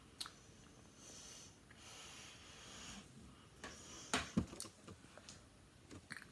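Faint breaths with a few small clicks and knocks, the loudest knocks coming about four seconds in.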